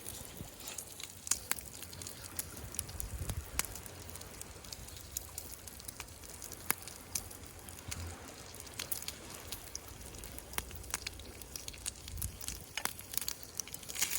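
Wood campfire crackling, with irregular sharp pops and snaps over a low background rumble.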